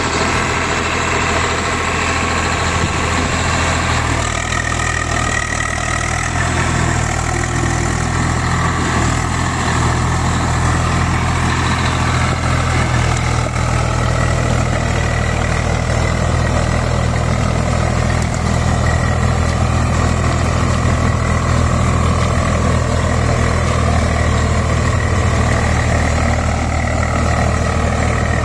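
Swaraj 744 XM tractor's three-cylinder diesel engine running steadily at an even, low speed, with no revving.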